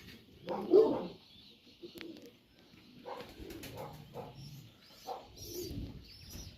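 Domestic pigeons cooing: a run of short low coos, the loudest about a second in.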